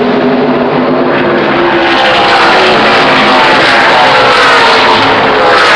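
NASCAR stock cars' V8 engines running at racing speed, several engine notes sliding in pitch as the cars pass one after another. The recording is very loud and distorted.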